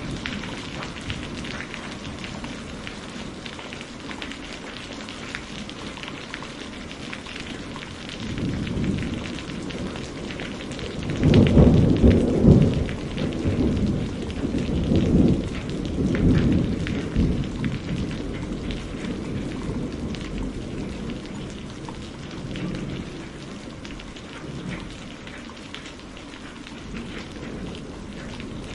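Heavy rain falling steadily, with a long roll of thunder that builds about a third of the way in, peaks in a loud low rumble and rolls on in swells for several seconds before fading back under the rain.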